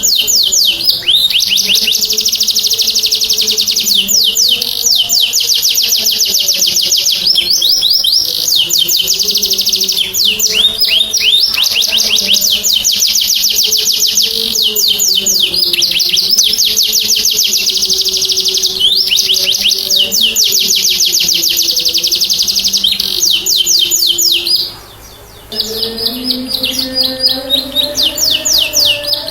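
Domestic canary in full song, singing long runs of rapid, high rolling trills almost without a break. There is one short pause about 25 seconds in.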